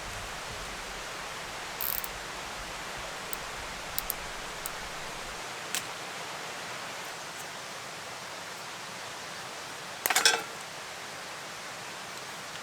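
Steady rushing noise of a nearby creek, with a few light clicks and a short crackle of handling noise about ten seconds in as a spinning reel is being fastened to a carved wooden rod.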